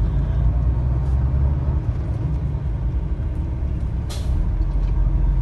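Truck engine and road noise, a steady low drone heard from inside the cab while driving. About four seconds in, a short sharp hiss.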